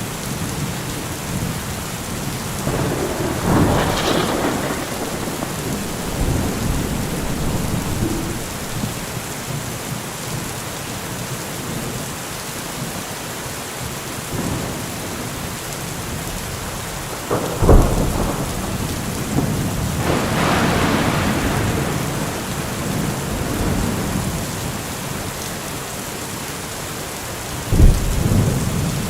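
Heavy rain falling steadily, with louder swells and two sudden deep thumps about eighteen and twenty-eight seconds in, each trailing off.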